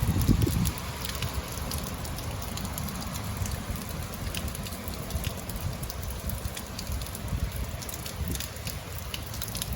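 Steady rain falling, with scattered drop ticks over a low rumble that is loudest in the first second.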